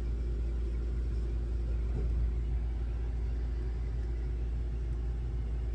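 A steady low rumble and hum, unchanging, with no distinct events.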